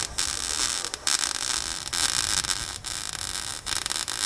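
Loud static-like hiss, strongest in the high end, cut by brief dropouts about once a second.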